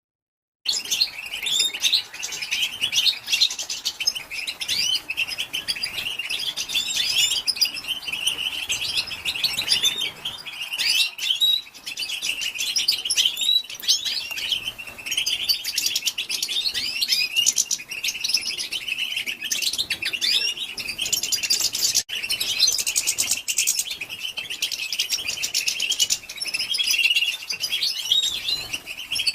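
European goldfinch hen's twittering chatter, known as battabta: a dense, unbroken stream of quick high chirps and trills that starts after a brief silence.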